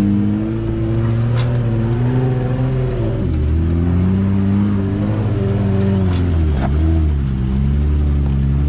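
Jeep's engine working under load on a rocky uphill crawl, the revs rising and falling with the throttle and dipping briefly about a third of the way in and again about two-thirds in.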